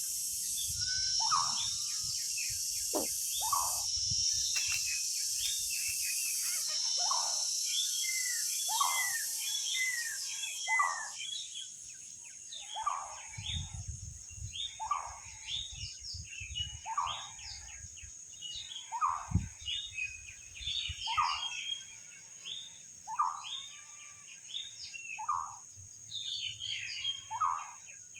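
Wild birds calling: one bird repeats a short call about every second and a half, among many quick high chirps from other birds, over a steady high-pitched insect drone that is louder for the first third.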